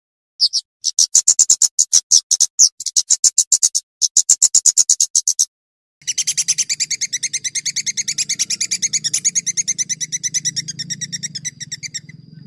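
Songbird calls from a bird-song training recording: fast runs of sharp high notes, about ten a second, with short breaks. After a brief silence at about five and a half seconds, a continuous rapid trill follows, with a faint low hum beneath it.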